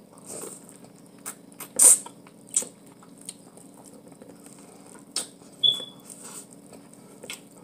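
Biting into and chewing boiled corn on the cob close to the microphone: scattered wet clicks and smacks, the loudest about two seconds in. A faint steady low hum runs underneath.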